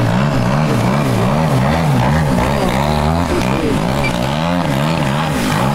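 The 100cc gasoline engine and propeller of a giant-scale 3D aerobatic RC airplane running loud, its pitch rising and falling again and again, about every half second.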